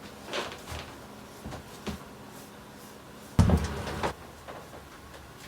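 A few faint knocks, then one heavy thump about three and a half seconds in.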